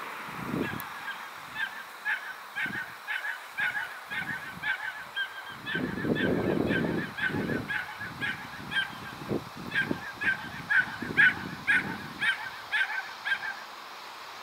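A bird calling over and over, short calls about three a second that stop shortly before the end, with low gusts of wind on the microphone.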